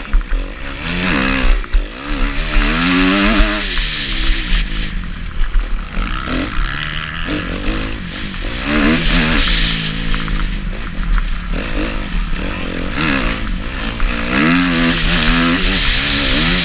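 Motocross bike engine revving up and falling back over and over, in rises and drops a second or two apart, as the bike works through the track. A steady low rumble and hiss runs underneath.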